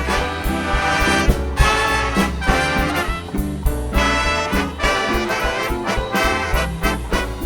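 Big band playing swing jazz: the brass section of trumpets and trombones plays loud chords over bass and drums keeping a steady beat.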